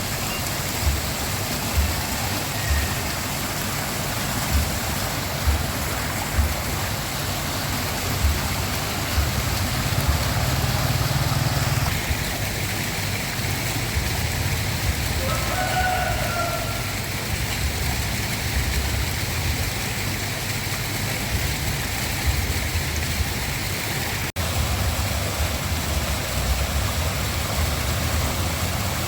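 Waterfall: a steady rush of falling water, with irregular low thumps underneath.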